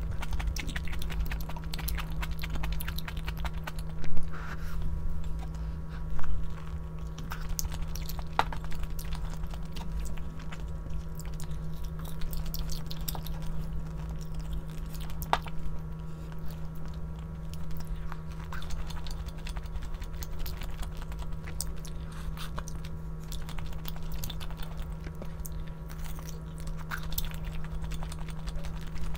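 A person chewing and biting food close to the microphone, with many small wet clicks while eating braised pork back ribs with kimchi. Two louder knocks come about four and six seconds in, over a steady low hum.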